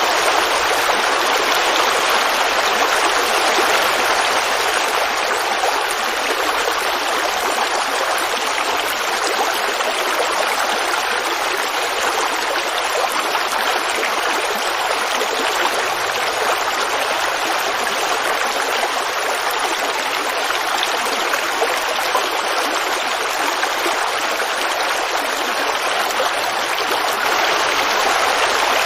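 Creek water babbling and rushing over rocks in a steady, unbroken flow.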